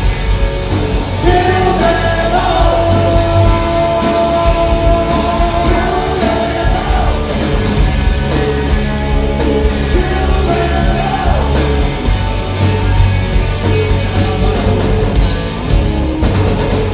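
A live rock band playing loudly, with drums, electric guitars and bass, and a long held note over the top during the first few seconds.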